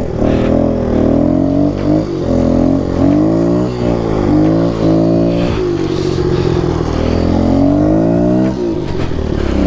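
Kawasaki KLX 110 pit bike's small single-cylinder four-stroke engine revving up and down over and over while the bike is ridden into a drift. It holds a steady high rev for a few seconds, then drops off near the end.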